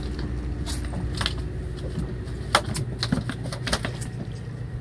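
Steady low drone of a fishing boat's machinery, with scattered sharp clicks and taps from tackle being handled on deck.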